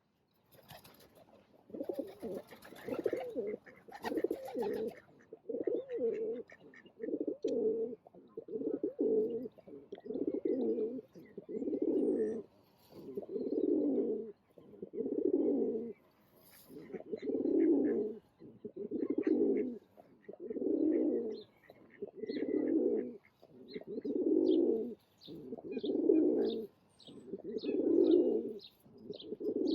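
A bird's low call, about a second long, repeated steadily about every one and a half seconds. A small bird chirps rapidly near the end.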